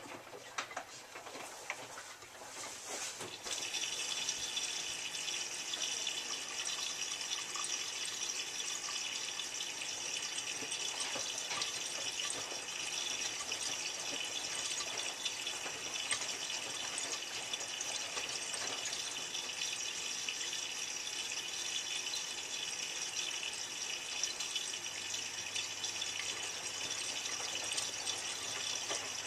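Miele W3744 washing machine drawing water into the drum through its inlet valve for a rinse: a steady hiss of inflowing water that starts about three and a half seconds in, after a few faint clicks.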